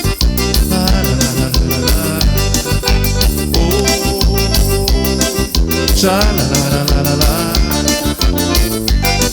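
Instrumental passage of a forró xote song: an accordion melody over a steady dance beat.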